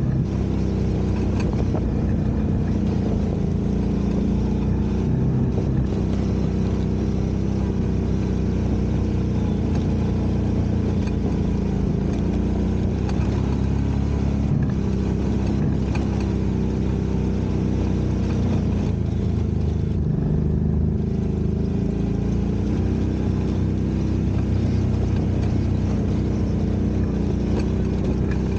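Side-by-side UTV's engine running steadily while driving along a trail, holding an even drone with slight rises and falls in pitch.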